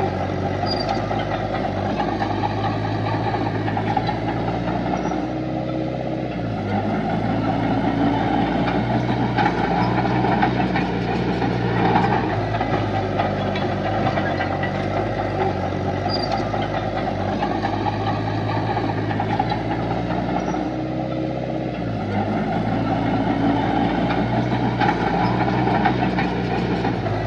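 Diesel engines of heavy earthmoving machinery, a bulldozer and dump trucks, running steadily. The engine note dips and changes twice, about fifteen seconds apart, as the load shifts.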